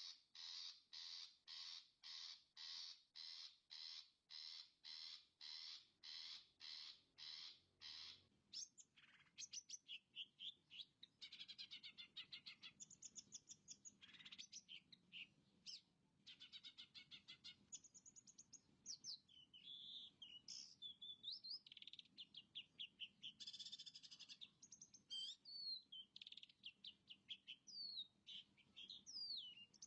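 Long-tailed shrike (cendet) singing: a run of evenly repeated harsh notes, about two a second, for roughly the first eight seconds, then a varied jumble of chatters, fast trills and rising and falling whistles.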